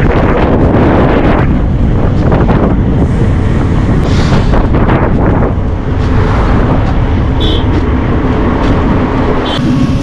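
Wind rushing over the microphone of a camera on a moving bike, with steady road and vehicle noise underneath.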